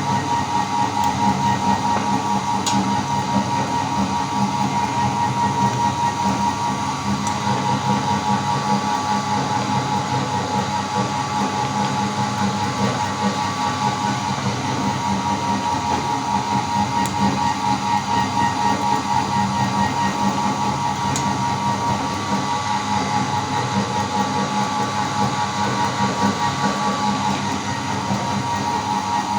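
Electric meat grinder running steadily with a constant motor hum, grinding jelly candies.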